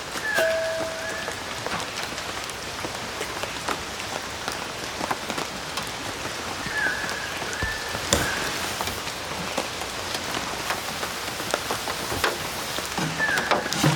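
Steady rain falling on a surface, with many individual drops tapping. A short high-pitched call sounds three times over it: near the start, about halfway, and near the end.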